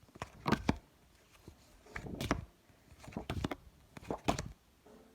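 Paper flashcards being handled and moved through a pack, four short rustling swishes about a second apart.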